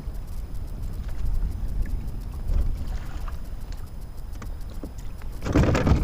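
Water lapping against a fishing kayak's hull and wind rumbling on the microphone, with a few light knocks and a louder rush near the end.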